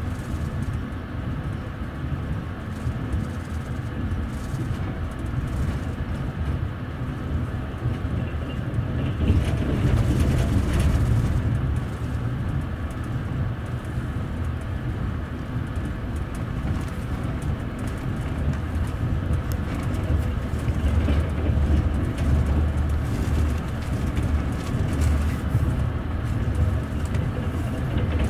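Wheels of a TVZ double-deck passenger coach rolling over the rails at speed, heard from the coach's upper deck: a steady low rumble with the knock of the wheels on the track.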